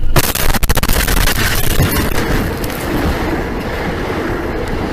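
A train strikes something with a sudden loud crash and a rapid clatter of impacts, then its heavy rolling rumble carries on steadily.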